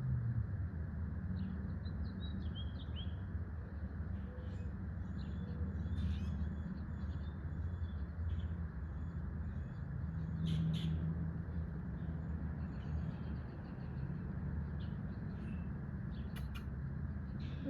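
Small birds chirping, with a run of quick repeated high notes in the middle, over a steady low rumble.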